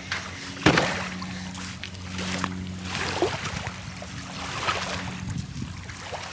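Small waves lapping and splashing at the water's edge in irregular washes, with one sharper splash about a second in, over a low steady hum.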